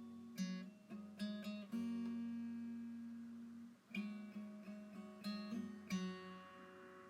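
Background music: acoustic guitar playing plucked and strummed chords, the last chord ringing out and fading near the end.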